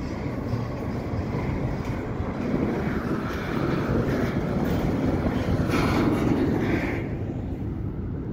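Double-stack container well cars being shoved slowly along yard track: a steady rumble and rattle of wheels on the rails, growing louder partway through.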